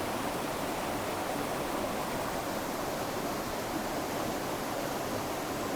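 Steady rush of flowing river water, an even hiss with no separate events.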